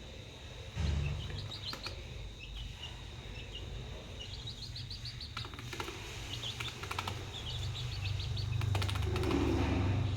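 Chicks peeping in quick runs of short, high chirps, with a few sharp clicks and a low rumble underneath.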